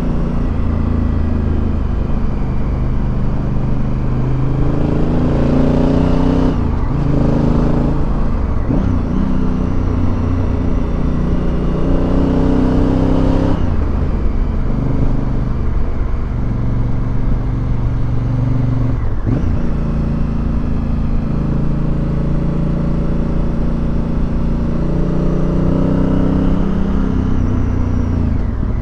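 Motorcycle engine running steadily while riding, its note breaking and changing pitch several times as it shifts gears.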